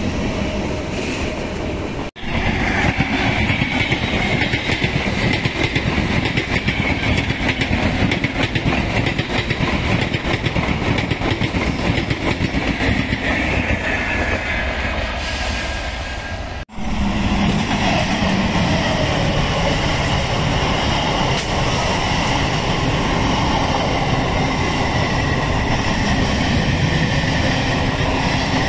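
Indian Railways passenger trains passing at speed close by, a MEMU electric multiple unit among them: steel wheels clattering over the rails with a loud, steady rumble. The sound breaks off abruptly twice, about two seconds in and about halfway through, and resumes at once with another train.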